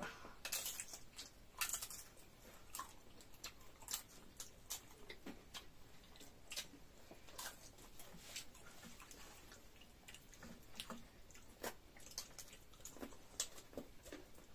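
Mouth sounds of someone eating soft dhido and nettle curry: faint, irregular wet clicks and smacks of chewing, a few a second.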